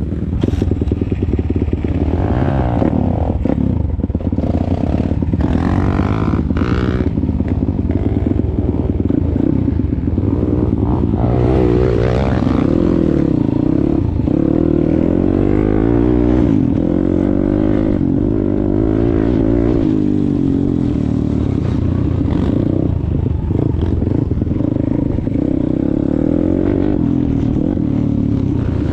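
Pit bike's single-cylinder four-stroke engine running under a rider, its pitch rising and falling repeatedly as it is revved and throttled back, with some clattering.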